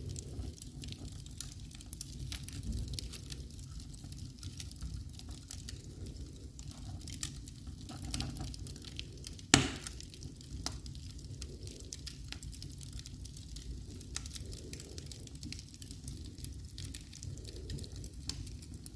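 Wood fire crackling in a fireplace: steady low flame noise with many small snaps, and one loud pop about halfway through.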